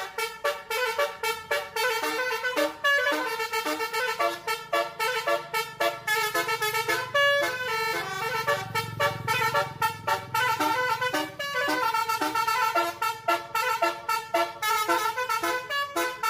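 Truck's musical horn playing a fast melody of short repeated notes, with a low engine hum underneath that swells about halfway through.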